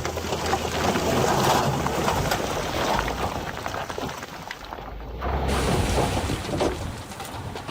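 A load of stones sliding and tumbling as it is dumped, a dense rattling rush that eases off about four seconds in.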